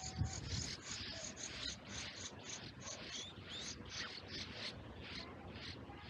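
Fast, steady run of short, high chirps, about four a second, with a couple of brief rising whistles partway through.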